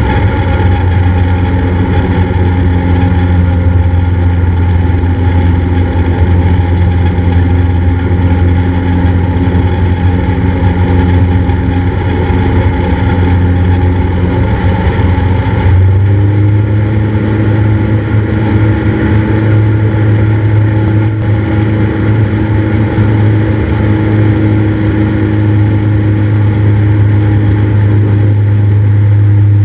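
Cessna 172's engine and propeller running steadily, heard from inside the cabin. About halfway through, the engine note steps up to a higher, steady pitch as power is added.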